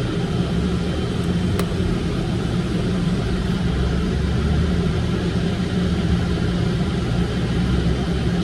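Car engine idling, a steady low rumble with a constant hum, heard from inside the cabin.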